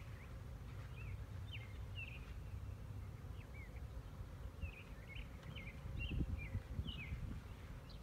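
A songbird chirping over and over in short, high, falling notes, over a low rumble, with a few dull knocks about six seconds in.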